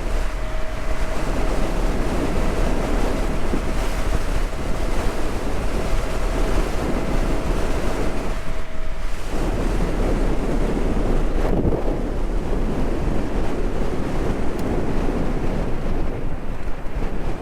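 Heavy wind noise buffeting the microphone, a loud steady rush. A faint steady tone sits under it and stops about halfway through.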